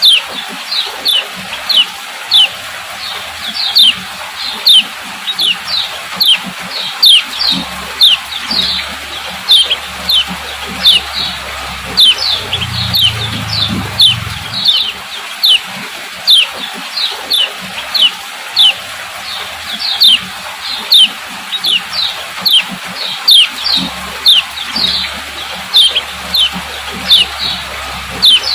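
Female common iora (kecial kuning) giving its repeated 'ciak ciak' call: short, sharp notes that drop quickly in pitch, about one and a half a second, kept up without a break.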